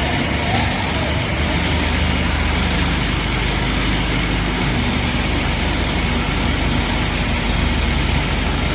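A machine running steadily, a low hum under a loud, even hiss.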